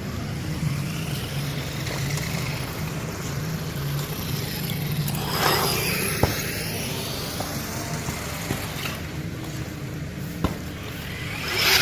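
HSP Brontosaurus 1/10 brushless RC monster truck driving, its electric motor whine rising and falling twice, about halfway through and again near the end, over a steady low hum, with a few sharp clicks.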